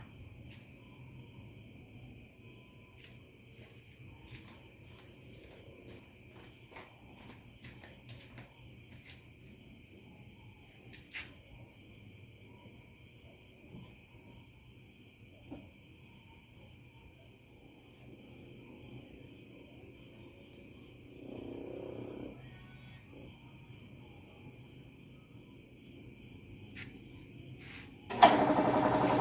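Crickets chirping in a steady, fast high trill, with a few faint clicks. Near the end a motor starts up suddenly and runs loudly.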